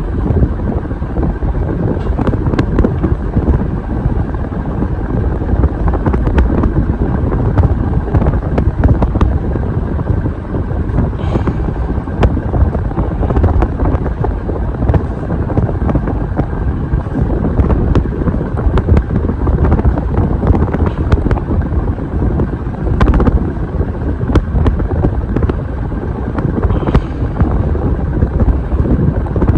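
52-inch Hampton Bay Cameron II Plus ceiling fan running, its blades' airflow buffeting the microphone as a steady low wind rumble, with a few faint clicks.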